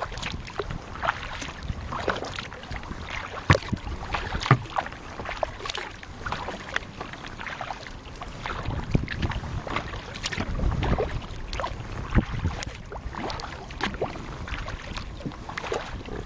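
Kayak paddle strokes in water: the blades dipping and splashing at an irregular pace, with water running and dripping, and a few sharper knocks.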